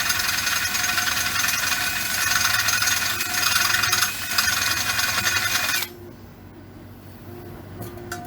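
A power tool running with a steady hiss and high whine, cutting off abruptly about six seconds in, followed by a few faint clicks.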